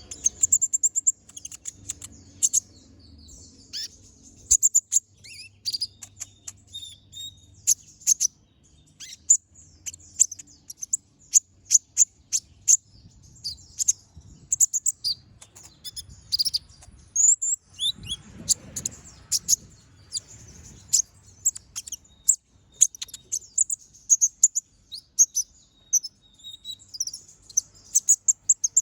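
Kolibri ninja sunbird in full song: a fast, continuous run of very high, sharp chirps and ticking notes, the rapid 'sharp shots' that keepers prize in a singing konin.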